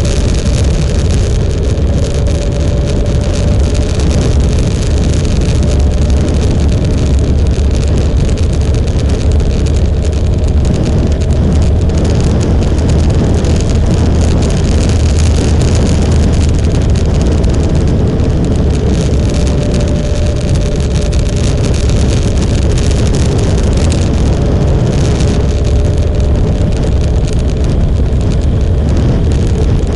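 Motorcycle riding along at a steady speed: a constant engine drone with heavy low rumble and road noise, unchanging throughout.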